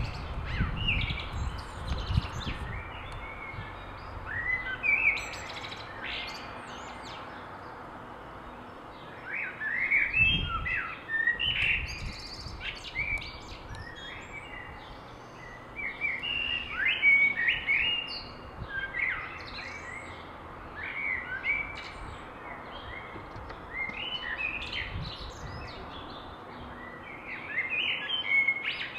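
Small songbirds chirping in the trees, short high calls coming in clusters throughout over a steady outdoor hiss, with a couple of low rumbles near the start and about ten seconds in.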